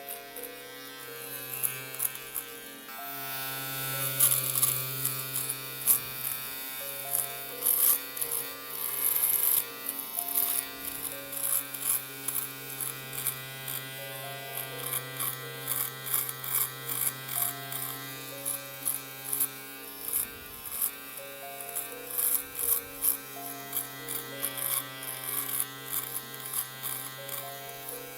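Electric shaver running with a steady buzz.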